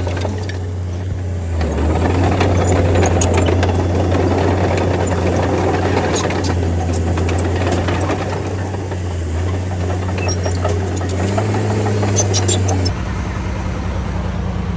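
Bulldozer's diesel engine running steadily, swelling and easing as the load changes while it pushes soil, with scattered sharp clicks. About thirteen seconds in, the sound cuts abruptly to a different, low throbbing engine.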